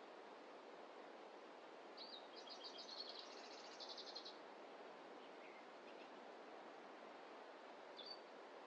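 A wild bird sings a fast trill of high, rapidly repeated notes lasting about two seconds, then gives a few short single chirps, over a faint steady rushing background.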